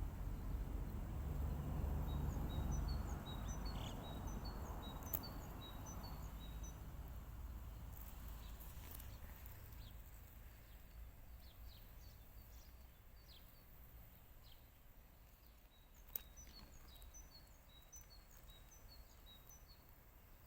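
Faint birdsong: a songbird gives a quick run of short high chirps, then repeats the same phrase about ten seconds later. Underneath is a low rumbling background noise that slowly fades, broken by a sharp click about 5 s in and another about 16 s in.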